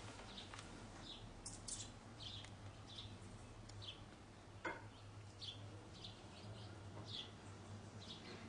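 Hummingbird chipping: short, high, faint chip notes repeated roughly once or twice a second. A single sharp click about halfway through.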